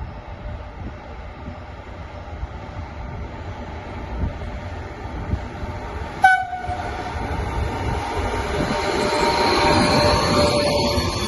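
A train running through a railway station, its rumble growing louder toward the end, with a short horn toot about six seconds in.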